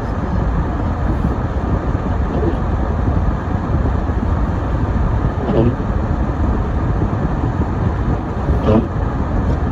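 Steady road and engine noise of a car driving on a snowy road. A few short, squeaky pitched glides recur about every three seconds.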